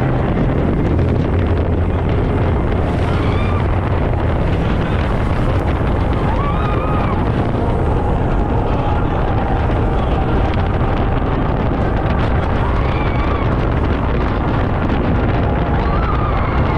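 900-horsepower speedboat running fast on the sea: a loud, steady engine drone, with wind buffeting the microphone and water rushing past the hull.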